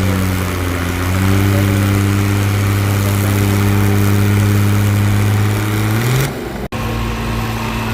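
Tractor engine running steadily. About six seconds in, its pitch rises briefly, the sound drops out abruptly for an instant, and the engine is heard running again.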